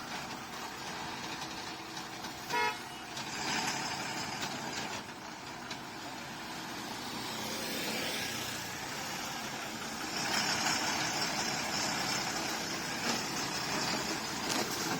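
Road traffic noise, with one short vehicle horn toot about two and a half seconds in.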